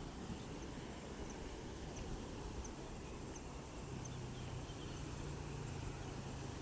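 Rural outdoor ambience: a steady hiss with a faint high chirp repeating about every two-thirds of a second, like an insect or small bird. A low steady drone comes in about four seconds in.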